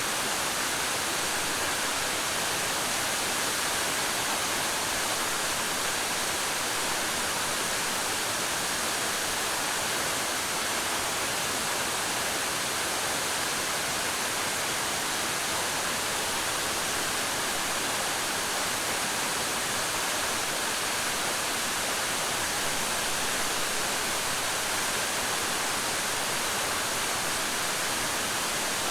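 Waterfall falling water: a steady, unbroken rush of water, strongest in the higher hiss.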